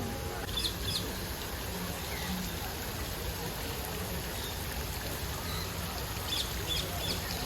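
Steady rushing sound like running water, with a few faint high bird chirps about half a second in and again near the end.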